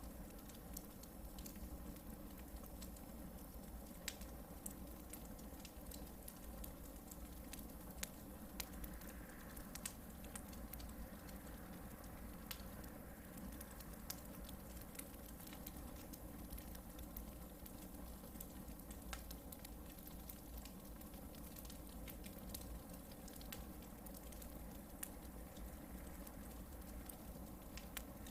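Hardwood campfire burning: a soft steady hiss with frequent small crackles and a few louder snapping pops scattered irregularly.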